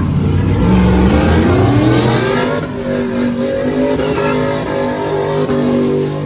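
A vehicle engine revving: it climbs in pitch over about two seconds, then is held at high revs with small wavers.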